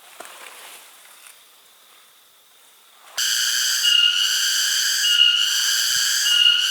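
A cicada starts up suddenly about three seconds in: a loud, high-pitched, steady whine that swells in regular pulses a little over a second apart. Before it there is only faint rustling.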